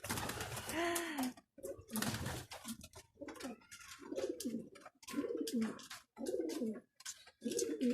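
Domestic pigeons cooing over and over, a run of low rising-and-falling coos about one a second with short pauses between.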